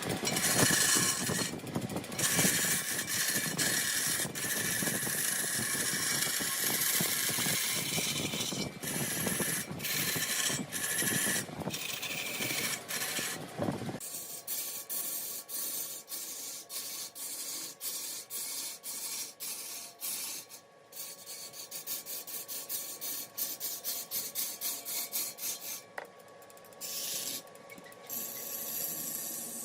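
A tool cutting and scraping mahogany on a large wood lathe. A dense, steady cutting noise gives way about halfway through to quieter scraping with a quick, regular ticking, several ticks a second.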